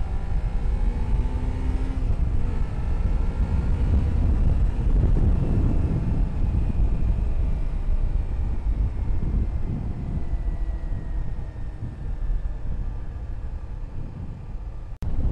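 Motorcycle engine pulling away and accelerating, its pitch rising, then easing off with a slowly falling pitch, under heavy wind rumble on the rider's microphone.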